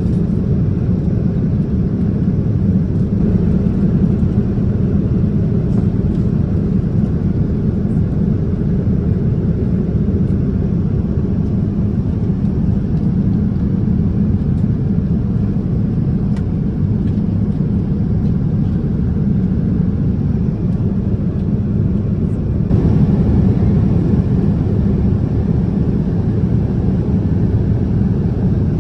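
Steady low rumble of airliner cabin noise aboard a Boeing 787-10 in flight: engine and airflow noise without distinct tones. About 23 s in the sound shifts and gains more hiss.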